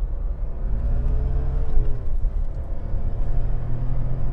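Lotus Carlton's twin-turbo straight-six heard from inside the cabin, pulling under acceleration: a low, quiet engine note over road rumble that rises, drops back about two seconds in, then climbs again.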